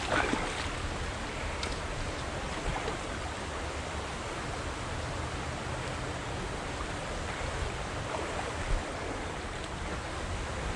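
Steady rush of flowing river water, with a few faint knocks.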